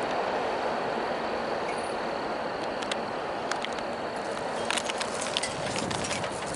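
Norfolk Southern freight train rumbling along the rails as it moves away, fading gradually, with a scatter of sharp high ticks in the second half.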